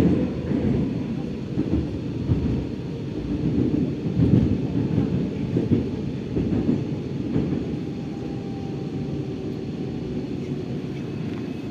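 Metro train of type 81-740.1 running through a tunnel, heard from inside the car: a continuous low rumble of wheels on rails with irregular louder bumps, settling to a steadier run in the last few seconds.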